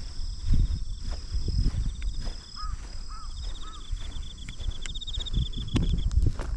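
Walking footsteps, about two a second, with insects trilling steadily in the grass. Three short, faint chirps come in the middle.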